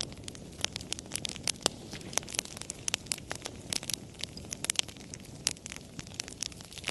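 Wood fire crackling: frequent irregular sharp pops and snaps over a soft steady rush of burning.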